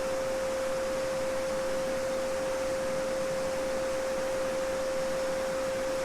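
A steady 528 Hz sine tone (the "Solfeggio frequency") held without change over the even rush of a babbling brook.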